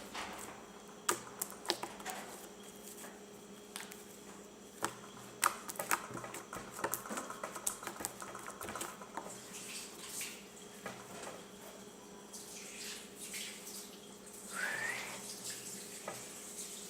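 Homemade glue-and-shaving-foam slime being squeezed and stretched by hand, making irregular wet clicks and little pops.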